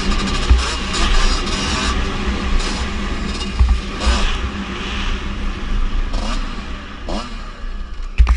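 Kawasaki KX125 two-stroke motocross bike engine running under throttle, its revs climbing twice in quick rising sweeps near the end.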